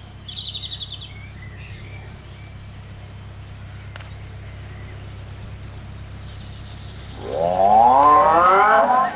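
Birds chirping in short trills over a steady low hum. About seven seconds in, a much louder sound of several tones together breaks in, rising and wavering in pitch.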